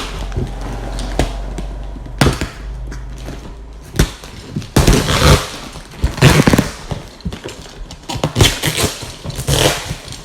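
Cardboard packaging of an exhaust being opened by hand: a string of sharp knocks and handling clatter, with longer rough tearing and scraping noises about five, six and eight to nine and a half seconds in.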